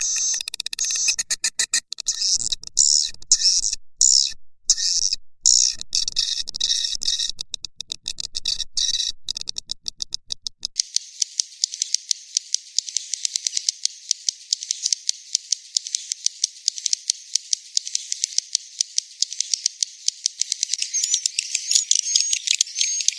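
Swiftlet lure call used in swiftlet farming to draw birds into a nest house: fast, continuous rattling clicks and chirps. About halfway through it switches abruptly from a buzzier, fuller call to a thinner, higher-pitched rapid twittering of clicks.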